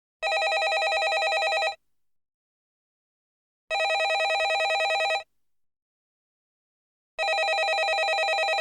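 Landline telephone ringing: three rings of about a second and a half each, about two seconds apart, each with a rapid flutter.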